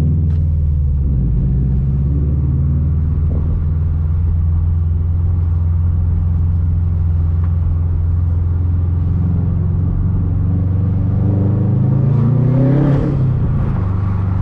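A 2021 Subaru WRX STI's turbocharged boxer four, heard through a titanium catback exhaust from inside the cabin with the windows down. It is cruising steadily at low revs, then about eleven seconds in the revs rise in a light throttle pull, peak a couple of seconds later and drop back.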